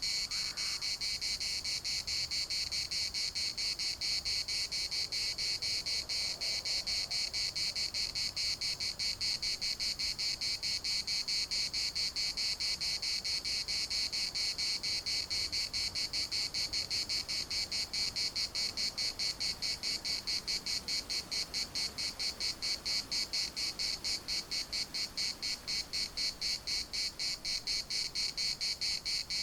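Chorus of cicadas shrilling without a break, a high, steady buzz made of rapid, regular pulses.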